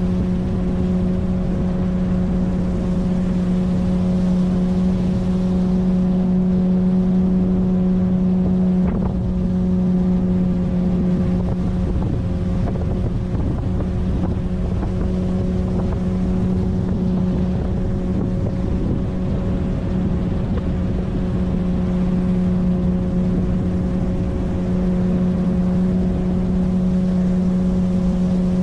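9.8 hp outboard motor on an inflatable boat, running under way at a steady, unchanging speed with a constant hum.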